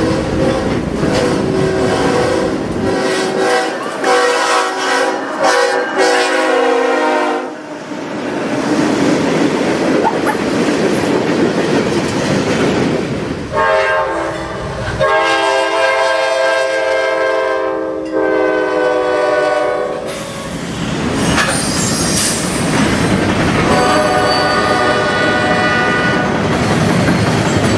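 Locomotive multi-chime air horns sounding in long blasts three times, over the rumble and clickety-clack of passing trains.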